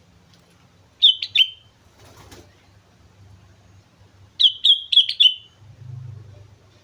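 Sooty-headed bulbul singing two short bursts of loud, clear whistled notes: three quick notes about a second in, then five a few seconds later. A brief soft rustle falls between them.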